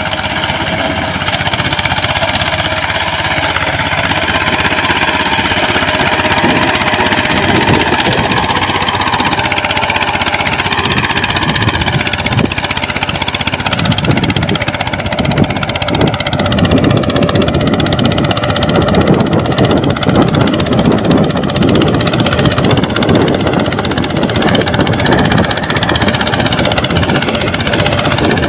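Small engine of a homemade agricultural mini tractor running with a fast, even firing beat, its pitch wavering up and down as the engine speed shifts.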